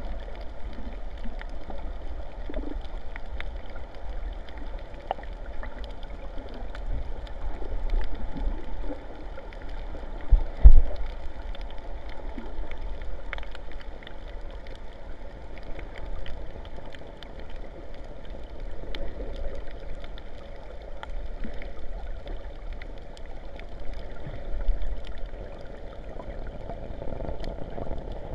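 Sea water sloshing and gurgling, with scattered small clicks and one loud low thump about ten and a half seconds in.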